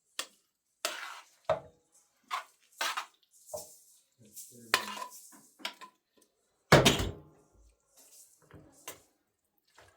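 A string of irregular clatters and knocks, as of hard objects being handled and set down, with a heavier thud about seven seconds in.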